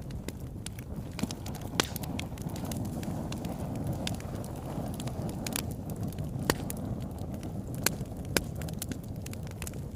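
Wood fire burning in a fireplace: a steady low rumble of flames with frequent sharp crackles and pops, a few louder snaps about two, six and a half, eight and eight and a half seconds in.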